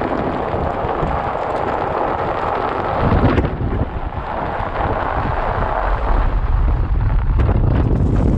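Strong blizzard wind rushing and buffeting the microphone, the low rumble growing heavier about three seconds in and again near the end.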